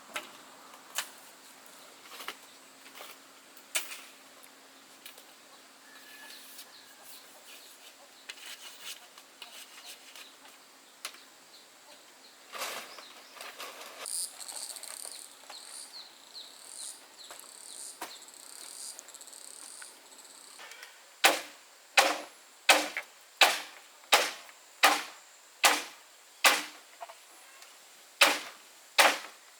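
Scattered light knocks, then a high chirping repeated for several seconds around the middle. About two-thirds in, a steady run of hard blows from a hand tool on wood or bamboo begins, about one and a half strikes a second, each ringing briefly.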